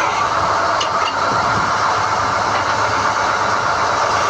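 Core drilling rig running steadily while hoisting drill rods, a continuous machine drone with a couple of faint clicks about a second in.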